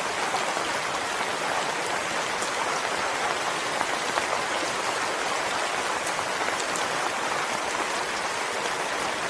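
Steady rainfall, a constant hiss with scattered faint drop ticks.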